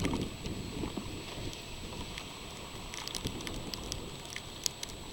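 Harbor floodwater lapping and spattering: a steady low rush with many small, scattered crackles.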